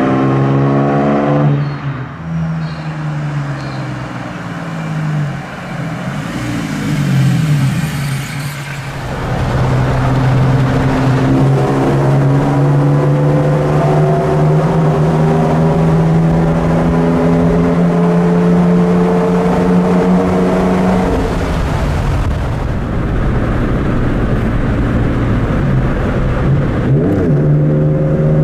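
Holden Jackaroo engine breathing through a full aftermarket exhaust (extractors, high-flow cat, 2.5-inch pipe, high-flow muffler), accelerating. The pitch drops about a second and a half in, climbs steadily for about ten seconds, falls away, then climbs again near the end.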